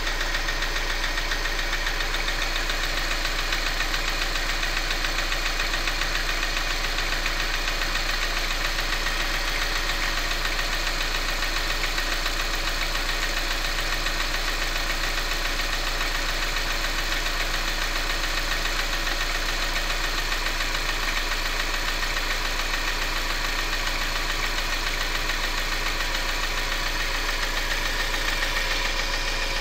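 Subaru EJ202 flat-four engine running steadily at an even speed with a repetitive knock, which the owner puts down to the number-four cylinder.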